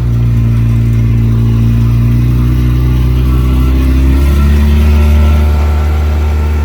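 Vehicle engine running steadily under way, its note shifting about four seconds in.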